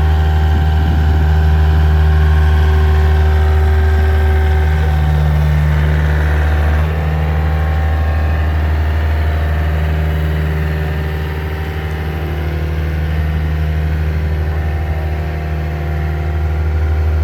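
An engine running at a steady idle, with a slight shift in its note about seven seconds in.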